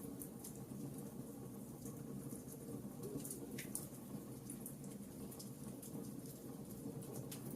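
Wood fire burning in a fireplace: a steady low rumble of burning logs with scattered small crackles and pops, one a little stronger about halfway through.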